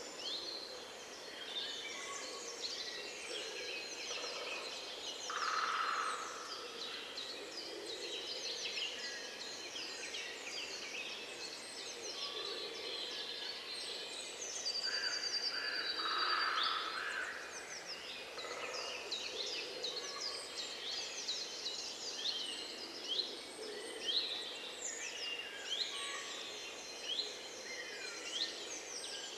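A chorus of many wild birds singing at once, a dense stream of short, quick chirps. Louder, lower calls stand out twice, about six seconds in and again about sixteen seconds in.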